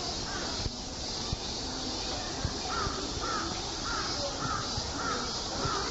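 A bird calling in a quick run of about six short, arched notes, about two a second, beginning a little before halfway through, over steady background noise.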